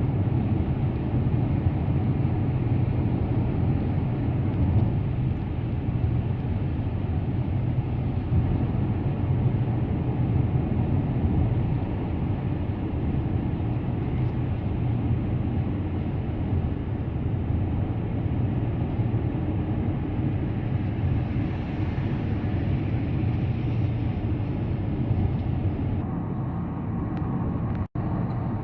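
Car driving steadily at road speed: a constant low rumble of engine and tyre road noise. The sound cuts out for an instant near the end.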